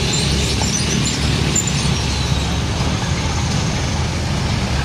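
Heavy diesel truck engine running amid road traffic: a steady, low rumble with a constant level.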